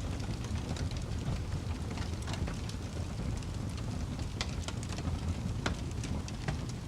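Fire crackling: a steady low rumble of burning with frequent irregular sharp pops and snaps.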